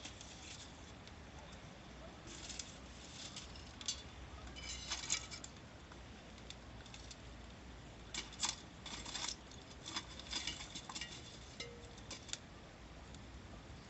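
Wood fire crackling in a newly lit fire pit, with irregular bursts of small pops and snaps.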